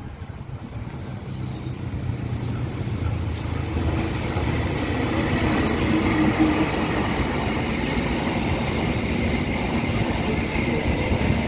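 CC 201 diesel-electric locomotive hauling a passenger train past at close range: its engine drone grows louder over the first few seconds as it approaches. The coaches then roll by steadily, with sharp clicks from the wheels on the rails.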